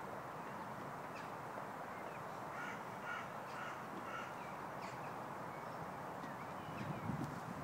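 A bird calling, a run of about five short calls in quick succession in the middle, over steady outdoor background noise.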